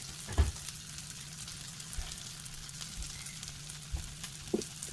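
Dandelion-and-oat fritters sizzling in oil in a cast iron skillet, a steady frying hiss. A sharp knock comes about half a second in, with a few lighter taps later.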